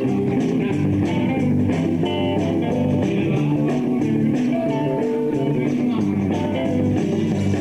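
Live rock band playing: guitars over bass and drums, with no vocals.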